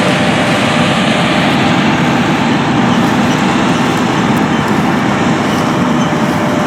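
Big John Deere farm machinery running steadily, a continuous diesel engine drone with working machinery noise.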